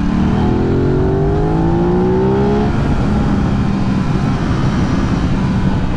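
Aprilia 660 parallel-twin motorcycle engine pulling hard, its pitch rising steadily through a gear for about the first two and a half seconds, then holding a steady note at cruise, over a constant low rush of wind.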